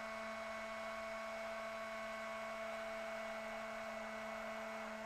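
Steady electrical hum with several even, high whining tones over it, holding a constant level throughout.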